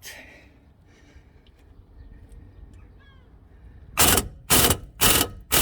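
Four hammer blows on metal, about half a second apart, starting about four seconds in: a socket being knocked onto a tight E-Torx bolt on a car's brake assembly.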